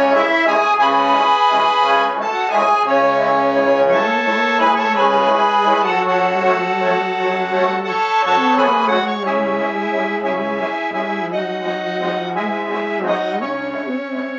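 A garmon, a Russian button accordion built by the master Khoroshilov, plays an instrumental passage between verses. A bright melody runs over short, repeated bass notes and chords, and it grows slightly softer toward the end.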